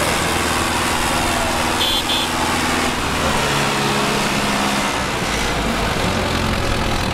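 Tractor diesel engine running, its engine speed shifting about three and again about five seconds in. A brief high double tone sounds about two seconds in.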